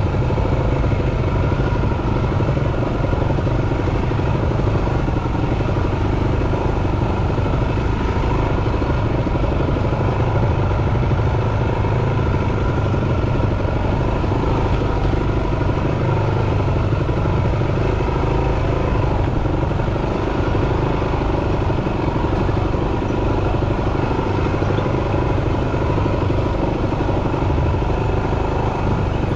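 Yamaha WR250F dirt bike's single-cylinder four-stroke engine running steadily and loudly, with no big revs or shifts standing out.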